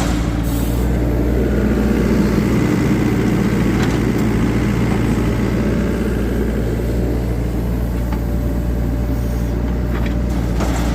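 An engine running steadily, a constant low drone with no change in pitch.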